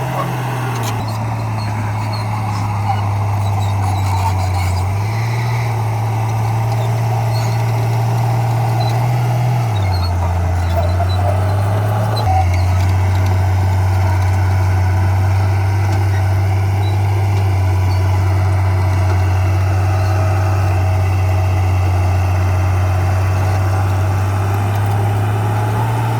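Bulldozer's diesel engine running steadily, its low hum stepping up and down in pitch several times as the engine works under changing load.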